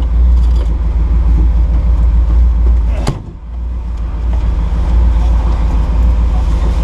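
Nissan GQ Patrol 4x4 engine running hard with a low rumble. A sharp knock comes about three seconds in, the engine sound drops briefly and then builds again.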